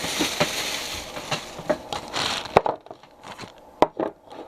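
Crinkling and rustling with sharp clicks as food containers are handled in a refrigerator, ending in a sharp knock about two and a half seconds in, then a few separate knocks of containers being set down.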